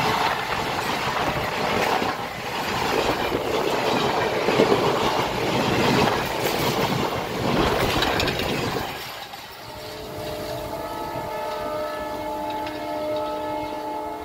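Passenger train coaches running past close by, a loud rumble and clatter of wheels over the rails that drops away about nine seconds in as the last coach passes. After that, several steady tones of a train horn sound together.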